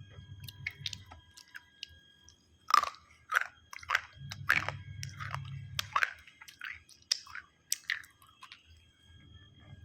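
A person biting and chewing crunchy food, with a run of sharp crunches about two a second, the loudest about three seconds in.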